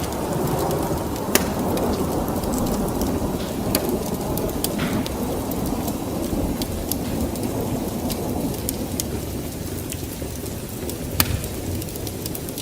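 Steady rain with a low, rolling thunder rumble that eases slightly toward the end, and scattered sharp clicks throughout.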